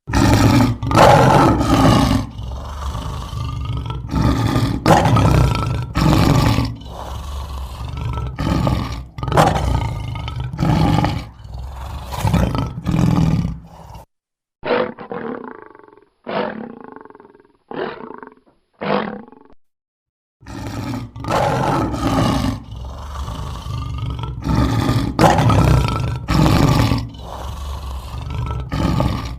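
Lions roaring: a long run of loud roars and grunts. In the middle is a quieter stretch of about five short, separate calls with silence between them, and then the roaring starts again.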